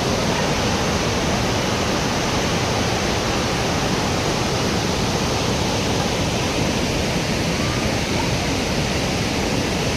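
A waterfall: water pouring and crashing in a loud, steady rush.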